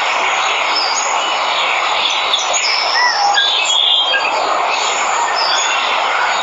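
Steady rush of a waterfall with jungle birds chirping over it: short high calls and whistles scattered through, with a clear rising-and-falling whistle about three seconds in.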